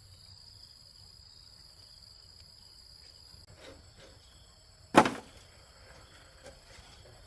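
Insects, crickets or cicadas, chirring steadily in a high thin drone, with one sharp loud knock about five seconds in.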